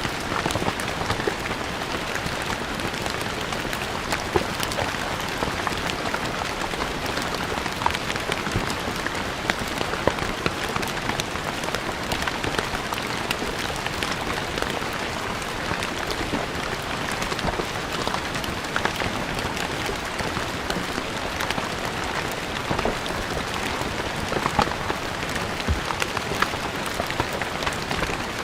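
Steady rain falling on stone paving, a constant hiss with many small drops ticking sharply on the hard surface.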